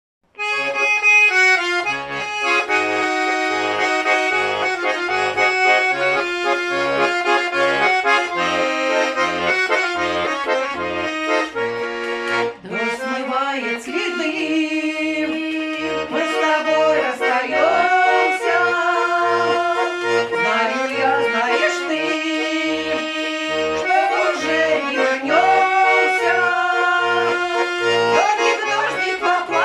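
Accordion playing a folk-style tune over an even, alternating bass-and-chord accompaniment. About twelve seconds in, a melody line that glides and wavers in pitch joins over the accompaniment.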